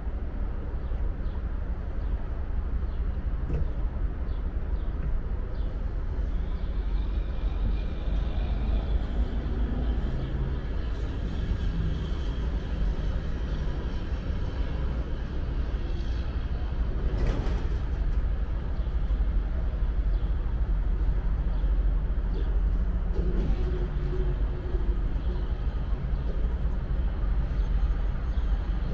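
Amtrak Auto Train autorack cars rolling slowly back toward the passenger cars to couple up: a steady low rumble with faint high wheel squeal in the middle, and one short sharp noise about two-thirds of the way through.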